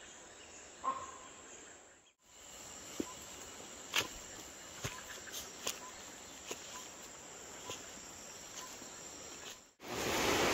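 Tropical rainforest insects chirring steadily, with scattered faint clicks and snaps. The sound drops out briefly about two seconds in, and near the end a louder rushing noise takes over.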